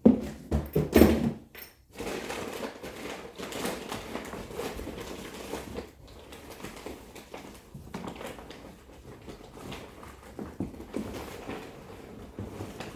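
A few loud knocks and clattering in the first two seconds, then a long stretch of rustling and shuffling as household things are handled and moved around.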